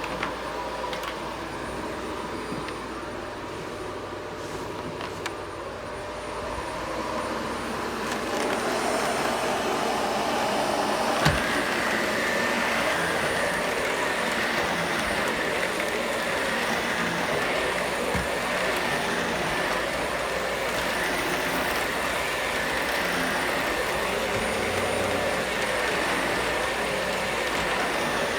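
Vacuum cleaner running steadily, growing louder partway through, with a higher-pitched whine setting in and a short knock about eleven seconds in.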